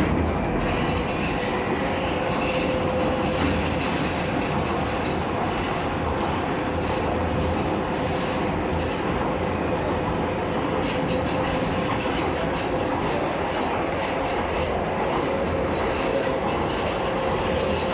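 Docklands Light Railway train running along the track, heard from inside the carriage: a steady rumble of wheels on rails with a steady hum and faint high-pitched whines.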